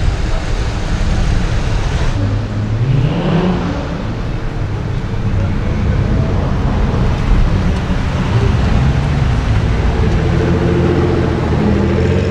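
A supercar's engine, loud throughout, rising sharply in pitch as it revs about three seconds in, then running on with a wavering note as the throttle changes.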